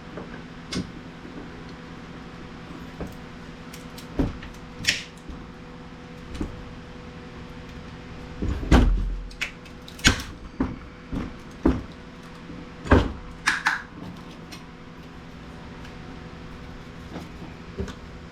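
Irregular clicks and knocks from working at a sealed plastic power adapter case to pry it open, with a heavier thump about nine seconds in and a cluster of knocks a few seconds later, over a steady low hum.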